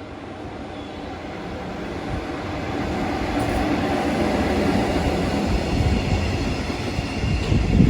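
A train approaching and running past on the line, its rumble of wheels on rails growing louder over the first three seconds and staying loud, with a louder surge near the end.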